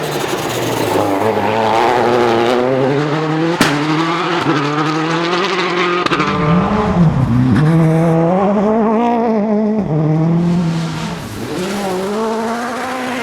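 Rally car engine at high revs, its pitch climbing and dropping repeatedly through gear changes and lifts, with a sharp crack about three and a half seconds in.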